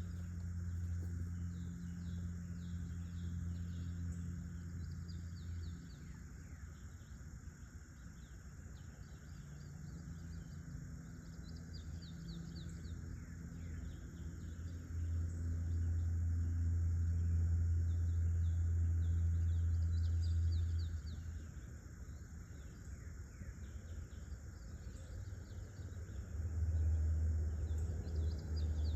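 Outdoor rural ambience: small birds chirping in short calls over steady insect trilling, with a low rumble that swells twice and is the loudest sound.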